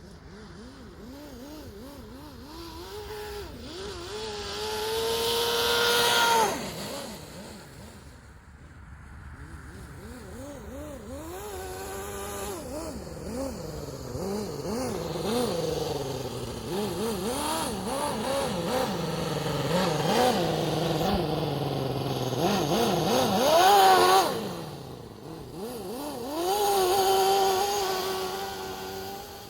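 Toyan four-cylinder model engine in an RC truck running under load, its pitch wavering up and down. It revs up hard and is cut back sharply twice, about six seconds in and again around twenty-four seconds, with another rev near the end.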